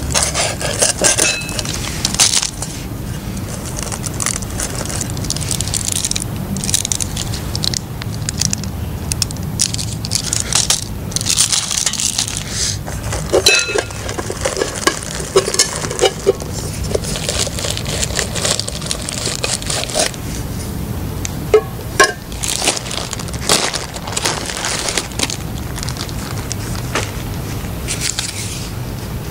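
Irregular clinks, scrapes and rattles of a lightweight aluminium camp kettle and a small metal stove being handled, over a steady low rumble.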